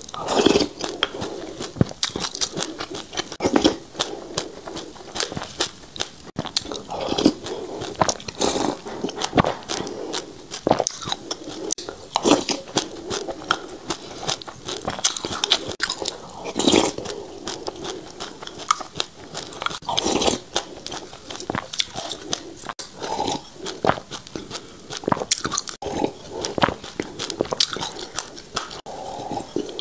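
Close-miked crunching and chewing of a mouthful of sesame seeds: dense crackling clicks, with louder bites every second or two.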